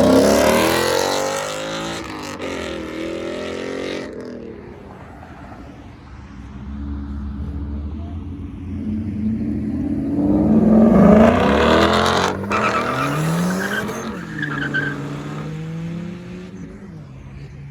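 Car engines revving hard and accelerating away, with tyre noise. It is loudest at the start and again about ten seconds in, where the engine pitch climbs, then it dies down toward the end.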